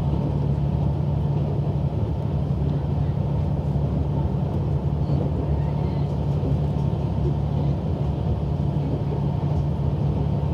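Interior noise of a diesel railcar running along the line, heard from the passenger cabin: a steady, even engine drone mixed with the rumble of the running gear.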